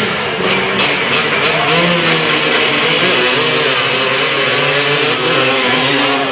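Engines of 226cc to 450cc drag motorcycles running and revving, their pitch wavering up and down.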